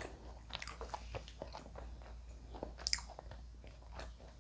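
Close-miked mouth sounds of a person chewing fried snacks: soft chewing with small, scattered crunchy clicks, a couple of sharper crunches along the way.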